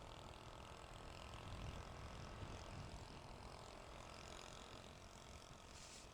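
Faint, muffled riding noise: low wind rumble on the microphone with a Yamaha Mio Aerox scooter's engine running underneath.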